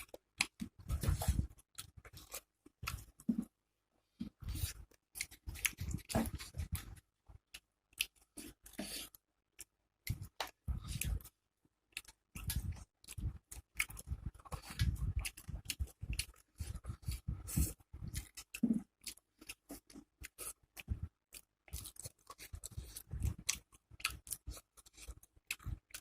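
Close-miked chewing and mouth sounds of a person eating rice and fried pakoras: quick, irregular wet smacks and crisp clicks, broken by short silent gaps.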